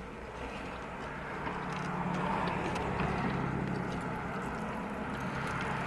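Steady low hum of a car engine that grows slightly louder about a second in, with a few faint ticks over it.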